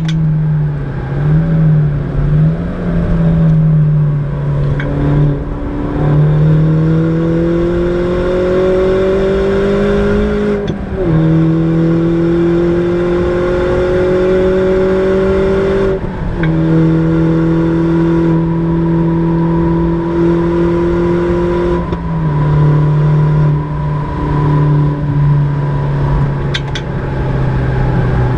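Mini John Cooper Works R56's turbocharged four-cylinder engine with a downpipe exhaust, heard from inside the cabin, pulling hard under full throttle. The pitch climbs steadily in each gear and drops sharply at each upshift, about every five seconds.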